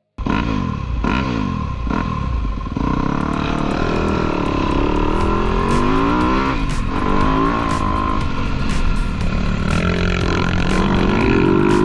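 Motocross dirt bike engines revving up and down, with their pitches rising and falling as the throttle opens and closes. The sound starts abruptly just after a brief silence.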